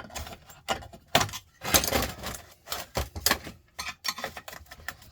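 Flathead screwdriver prying and scraping at a sandwich maker's aluminium hotplate to lift out the heating element: an irregular run of sharp metal clicks, taps and scrapes, busiest in the middle.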